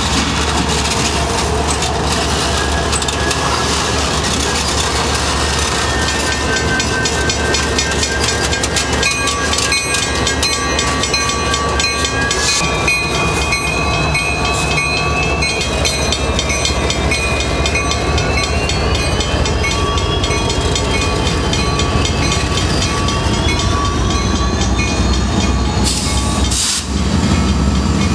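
Freight train cars rolling through a rail yard, wheels clicking over rail joints, with several high drawn-out tones that slowly rise and fall in pitch over the steady rumble.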